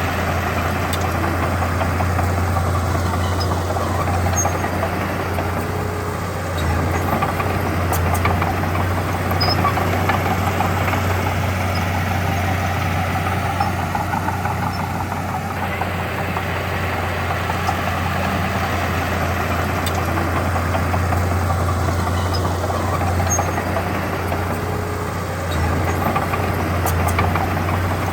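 Diesel engine of heavy earthmoving equipment running with a steady low drone; the sound dips briefly about six seconds in and again near the end.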